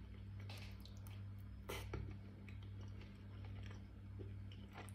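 Faint chewing and mouth sounds of a person eating a mouthful of rice pilaf, with a few soft clicks, the loudest a pair about two seconds in, over a steady low hum.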